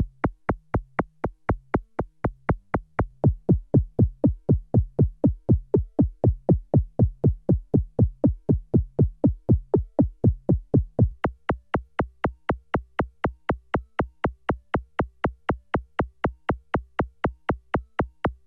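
Roland SE-02 analog monosynth preset playing a fast sequenced line of short, clicky notes, about four to five a second. The tone changes about three seconds in, getting duller and louder, and brightens again a little past the middle.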